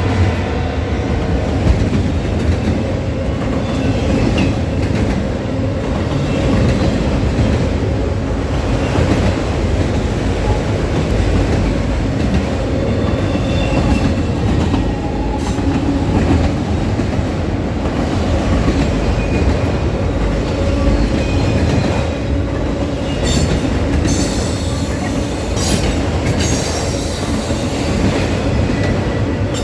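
A train rolling past on the rails, a loud steady rumble of cars and wheels. Shrill wheel squeals come and go, strongest in the last few seconds.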